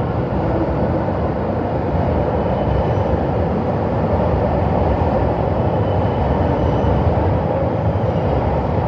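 Train Suite Shiki-shima luxury train pulling slowly into the platform, a steady low running noise that grows a little louder as it draws near.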